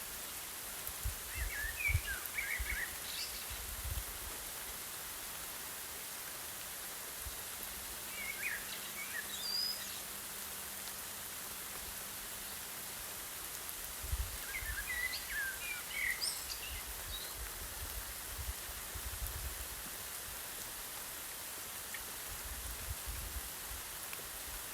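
Steady hiss of rain over an open field, with a distant bird singing three short chirping phrases and low rumbling gusts of breeze near the start and again in the middle.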